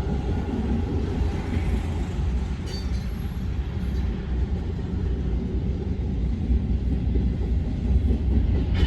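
Freight cars of a manifest train rolling past, a steady low rumble of steel wheels on rail.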